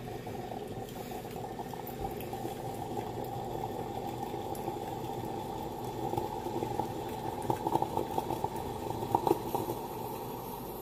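Imusa steam espresso machine boiling water and pushing it through the brew head into the carafe with a steady bubbling hiss, with a few louder sputters about three-quarters of the way through as the brew cycle runs out.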